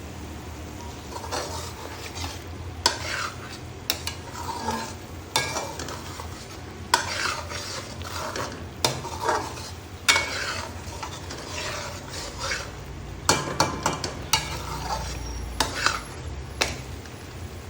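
A metal spoon stirring and scraping food in a pan while it sizzles, with repeated sharp clinks of the spoon against the pan at irregular intervals.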